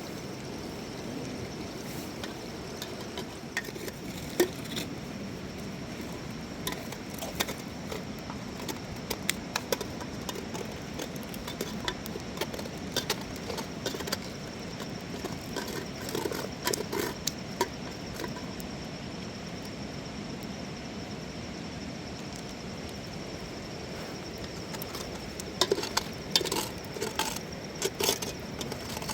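Scattered light clinks and clicks of small hard objects being handled, over a steady background hiss and a faint steady high tone. The clicks come in clusters, busiest in the middle and again near the end.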